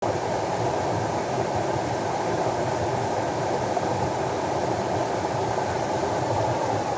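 Steady rushing of flowing water, an even, unbroken noise with most of its weight in the low and middle range.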